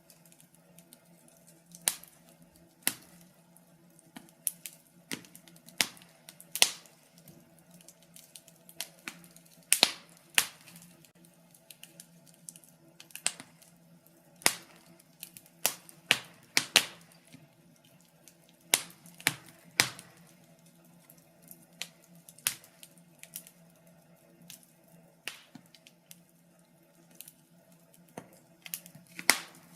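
Wood fire crackling in a fireplace: irregular sharp pops and snaps, a few a second, some much louder than the rest, over a faint steady low hum.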